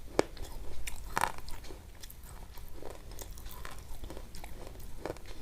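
Chewing with irregular short crunches, a sharper one just after the start and a louder one about a second in.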